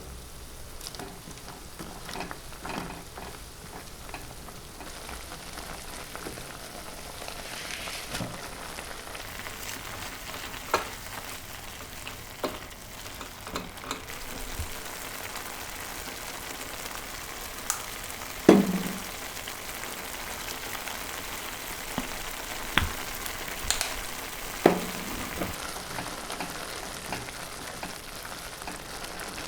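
Food sizzling in a frying pan with a steady hiss, with a utensil knocking against the pan now and then; the loudest knock comes about two-thirds of the way in.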